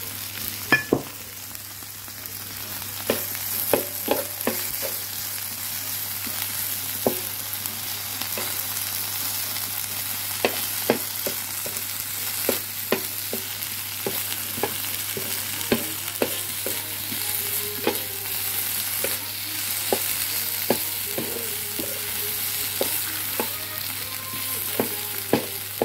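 Sausage slices and vegetables sizzling on an electric plancha griddle, a steady frying hiss. Frequent irregular clicks and taps from a plastic utensil on the griddle plate as the food is stirred and turned.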